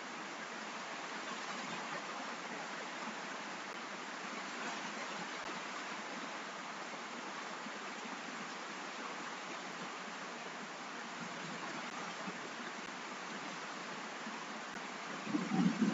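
Steady hiss of rain. Just before the end a louder low rumble sets in over it.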